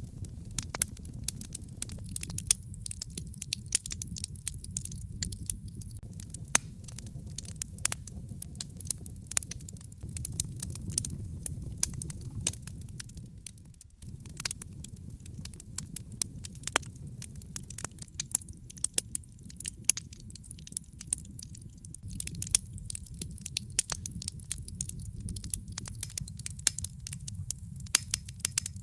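Wood fire crackling in a fireplace: irregular sharp pops and snaps over a steady low rumble, which dips briefly about halfway through.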